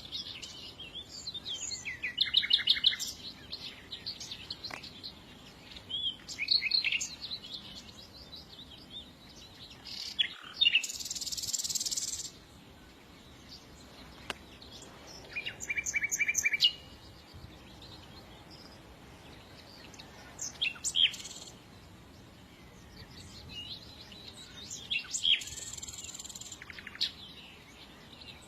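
Small songbirds singing and chirping in short bursts of rapid high notes and trills every few seconds, one buzzier burst lasting about two seconds, over a low steady background hiss.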